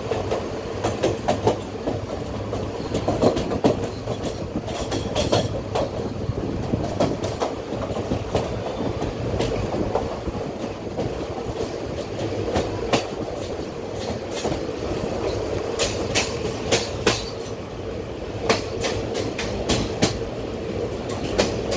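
Ratnachal Superfast Express passenger coach running at speed, heard from the coach side: a continuous rumble of wheels on rail under a steady hum, with sharp clickety-clack clicks in groups as the wheels cross rail joints.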